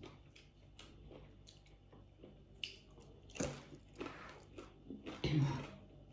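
Close-miked eating: a person biting and chewing food, with irregular wet mouth clicks and a few louder bites.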